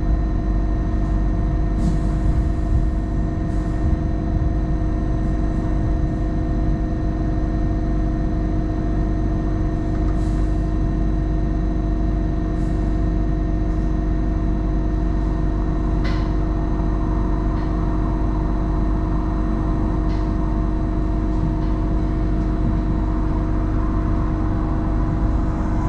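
Hong Kong Light Rail Phase I light rail vehicle running along the track: a steady low rumble of wheels on rail under a constant hum of several steady tones, with a few faint ticks here and there.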